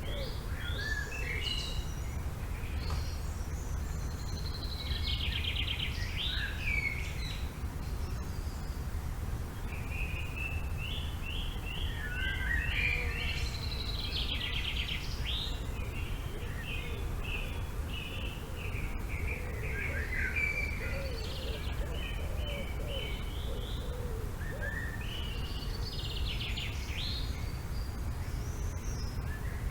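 Several songbirds singing in short, repeated chirping phrases that overlap one another, over a steady low rumble.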